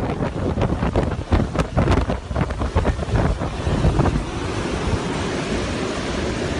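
Hurricane-force wind buffeting the microphone in hard gusts over the rush of storm surf. About four seconds in, the buffeting stops and gives way to a steady, even rush of wind and water noise.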